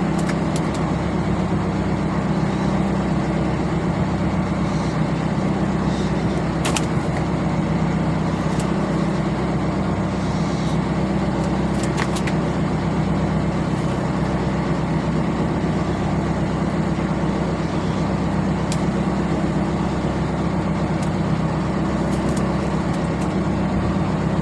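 Fishing boat's engine running steadily, an unbroken low drone, with a few faint clicks over it.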